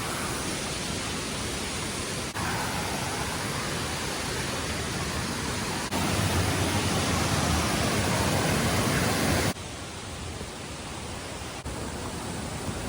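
Steady rushing of a waterfall, heard close by in several short takes: the level jumps abruptly at each cut, and it is loudest in the middle stretch.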